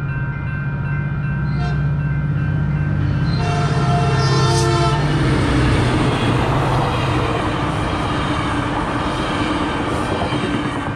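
Grade-crossing warning bells ringing steadily as a Metrolink commuter train passes. The train's horn sounds briefly about three to five seconds in. After that the rumble of the passing cars on the rails takes over.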